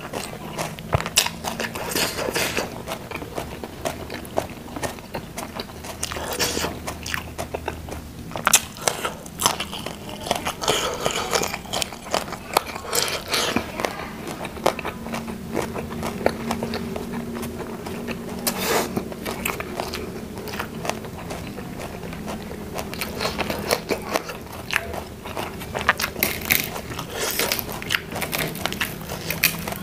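Close-miked eating: a person chewing and biting food, with many short crunches and crackles throughout.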